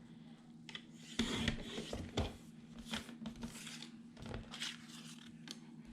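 Paper and cardstock being handled and moved on a work table: a series of short rustles and light taps, over a steady low hum.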